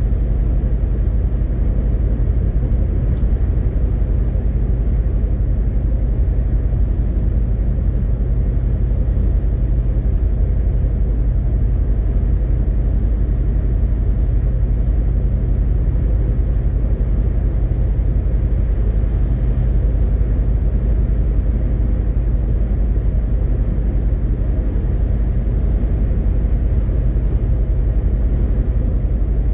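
MAN TGX 18.520 truck's six-cylinder diesel engine running steadily at an even pitch, with road and tyre noise, while cruising.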